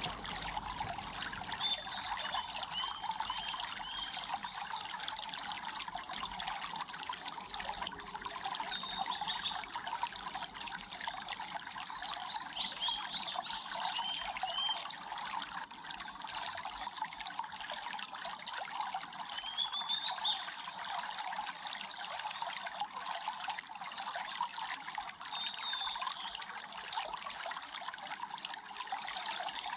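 Water trickling and splashing steadily, like a small stream. Short bird chirps come every few seconds over it.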